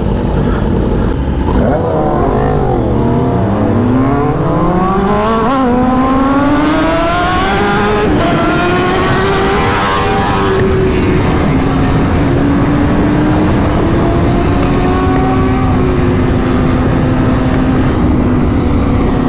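Superbike engine accelerating: its note dips, then climbs steadily for several seconds with a couple of brief steps, and settles into a steady cruise a little after the halfway mark, over a constant low wind rush on the microphone.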